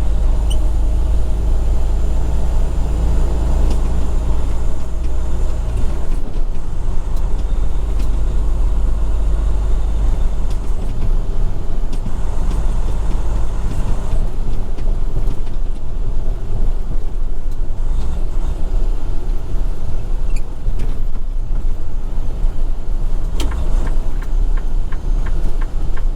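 Semi-truck tractor running down the road, heard from inside the cab as a steady low engine and road rumble that eases off about six seconds in. Near the end a regular ticking starts, about two to three ticks a second.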